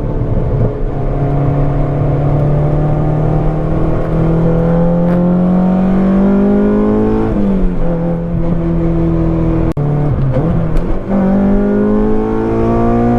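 Honda K24 four-cylinder engine in a swapped Mini pulling hard on the throttle. Its pitch climbs steadily, drops at an upshift about seven seconds in, and then climbs again after a second shift, which comes with a sharp crack about ten seconds in.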